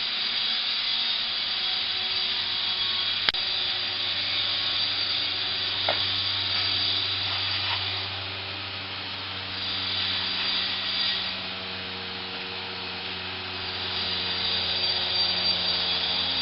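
A motor running steadily, with a steady hiss over a low hum, and one sharp click about three seconds in.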